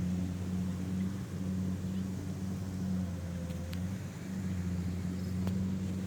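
Kubota combine harvester's diesel engine running steadily under load, a constant low drone.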